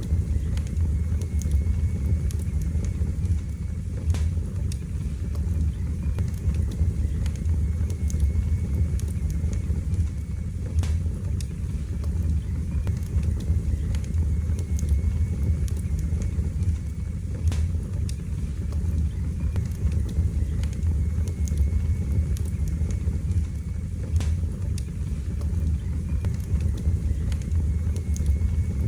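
Fire in a fireplace crackling: scattered sharp pops and snaps over a steady low rumble.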